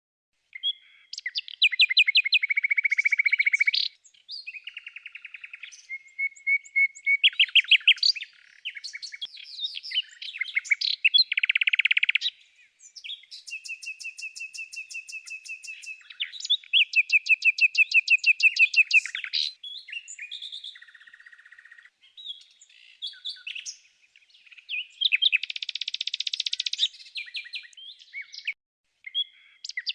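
Songbird singing a varied song of rapid trills and clear whistled notes, phrase after phrase with short pauses.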